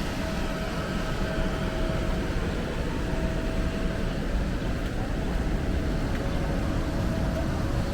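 Electric air blower running steadily as it inflates an inflatable kids' playground: an even, low drone with a thin steady whine over it.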